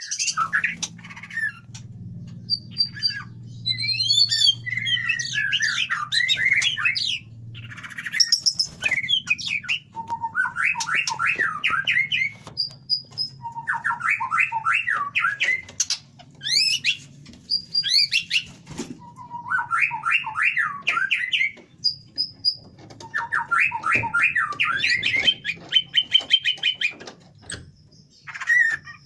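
White-rumped shama (murai batu) singing: repeated phrases of fast, varied trilled notes, each a second or two long, separated by short pauses, with scattered clicks between them.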